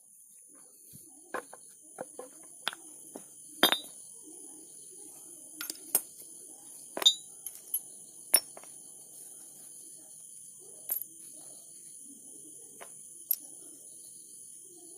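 Irregular metallic clinks and knocks of small parts and hand tools being handled, about a dozen sharp strikes at uneven intervals over a steady high hiss.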